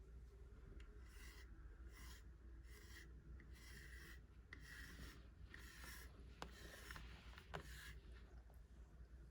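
A brush drawn through a cat's fur in repeated soft, scratchy strokes, about one a second, faint, with a couple of sharp ticks in the second half.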